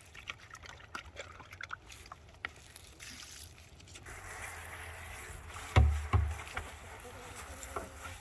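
Water trickling and splashing as an animal's water container is washed out by hand, with small knocks and clicks in the first few seconds and a steady rush of water from about halfway. Two heavy low thumps come close together about six seconds in.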